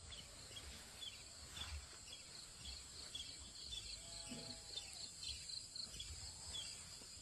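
Outdoor insect chorus: a steady high buzzing with short chirps repeating about twice a second, over an uneven low rumble.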